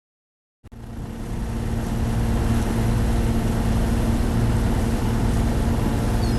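Boat engine running at steady speed: a low, even drone with a rushing noise over it. It starts after a moment of dead silence and swells up over the first couple of seconds.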